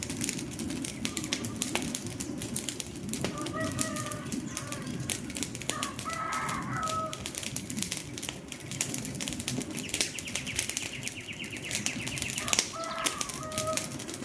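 Wood fire burning with dense crackling and popping over a low rush of flame. A bird calls in short pitched phrases, once about four to seven seconds in and again near the end.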